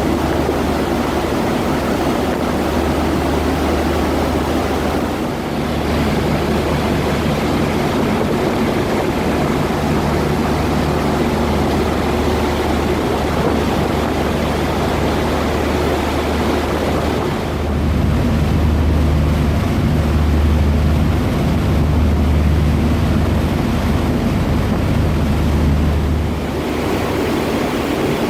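A passenger ferry under way: its engines run with a steady low drone, under an even rush of wind and water. The engine hum grows louder a little past halfway and eases back near the end.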